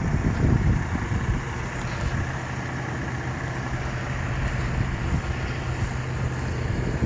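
Off-road SUV engine idling with a steady low hum, with wind rumbling on the microphone in the first second or so.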